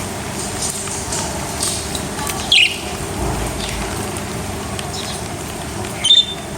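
Small parrots chirping, with two sharper, louder calls about two and a half seconds and six seconds in, over a steady hiss.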